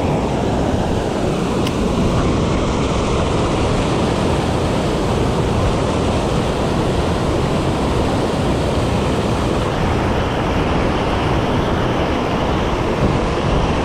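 Loud, steady rushing of river water pouring over a low water dam.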